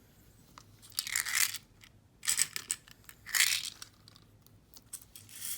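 Loose beads clinking and rattling as they are handled, in three short bursts about a second apart and a fainter one near the end.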